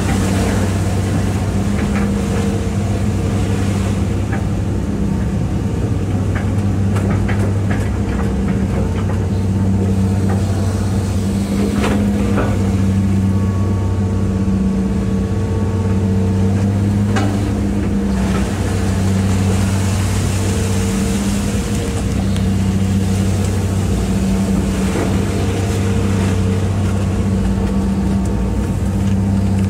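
Hitachi EX200-5 excavator's diesel engine running steadily, its note swelling and easing every few seconds as the hydraulics take load while digging. A few short knocks come through, about twelve and seventeen seconds in.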